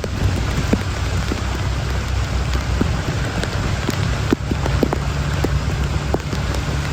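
Heavy rain falling steadily, with many scattered sharp drop ticks over an even hiss and a steady low rumble underneath.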